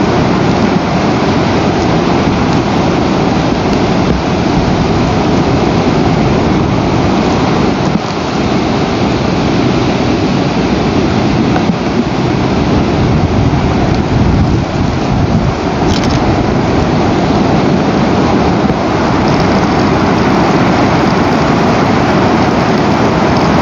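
Loud steady rushing noise on an outdoor nest camera's microphone, with a brief crackle about sixteen seconds in.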